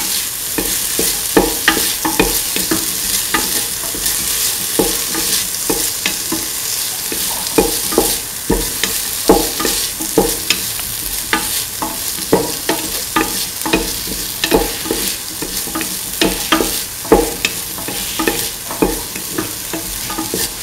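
Chopped onion, shallot, garlic and tomato sizzling in hot oil in a stainless steel pot, with a spatula scraping and knocking against the pot in repeated stirring strokes.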